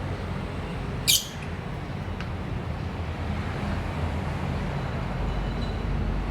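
A lovebird gives one short, shrill shriek about a second in, over a steady low background rumble.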